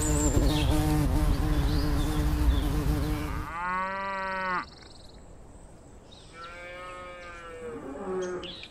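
A bee buzzing close up, a steady drone that cuts off about three and a half seconds in. Then cattle mooing: one moo of about a second, a second, quieter and longer moo a couple of seconds later, and a short call near the end.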